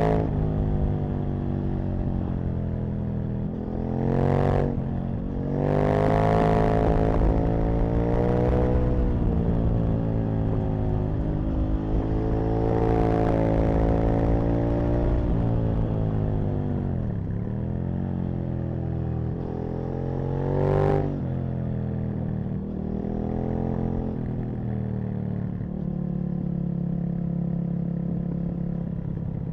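Aprilia RSV Mille's 60-degree V-twin running hard on a ride, the revs climbing and falling again and again through the gears. About halfway through, the revs drop low before pulling back up. In the last few seconds it holds a steadier speed.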